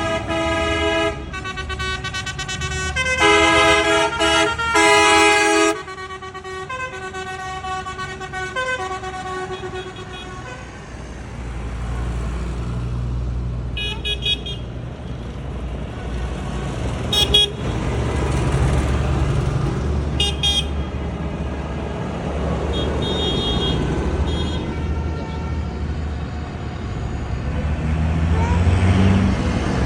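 Truck horns sounding long blasts in several pitches at once for about the first ten seconds. Then truck engines run steadily past, with several short high horn toots.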